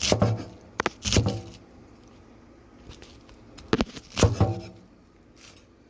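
Kitchen knife slicing through a red cabbage and striking the cutting board: a handful of separate cuts, a couple near the start and two or three more in the second half.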